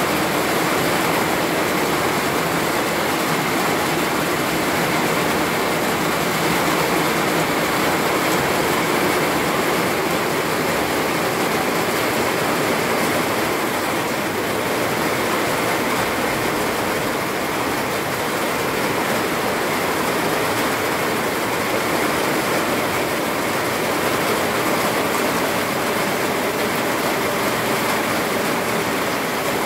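Summer rain pouring steadily onto trees and foliage: a loud, even hiss with no breaks.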